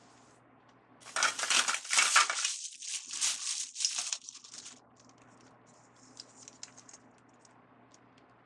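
Crinkly wreath-making materials rustling and crackling as they are handled, for about four seconds, followed by a few faint light ticks.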